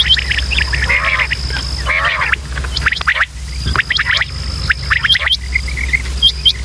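Quail calling: many short, sharp chirping notes in quick succession, over a steady high whine that comes and goes and a constant low hum.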